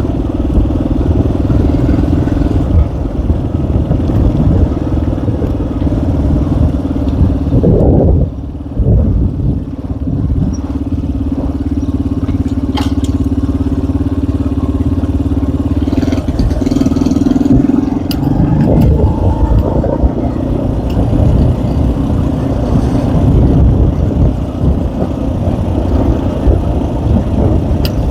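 Small ATX enduro motorcycle engine running steadily under way, with two brief dips about eight and nine seconds in and a slightly higher, stronger note from about sixteen seconds on.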